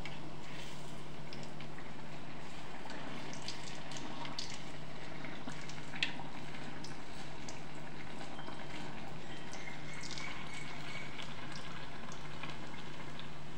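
Malpua frying in hot ghee in a wok over a gas burner: a steady sizzle with scattered small crackles, one a little louder about halfway through, over a steady low hum.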